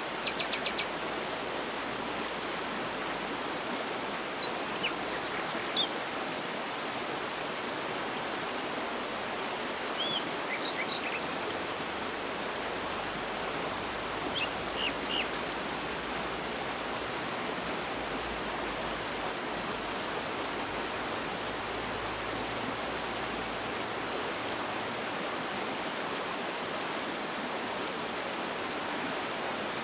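Waterfall rushing steadily. Short, high bird calls and trills come in a few scattered bursts during the first half.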